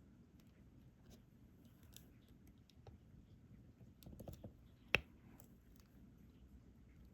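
Faint, scattered small clicks and taps of diamond-painting work: a stylus picking up resin drills and pressing them onto the sticky canvas, with a short flurry about four seconds in and one sharper click just after it.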